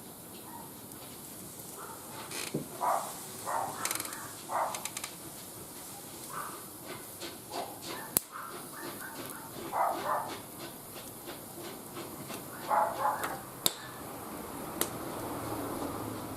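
Wood fire burning in a barbecue grill, crackling with a run of small ticks and several sharp pops. Scattered short mid-pitched sounds come and go between them.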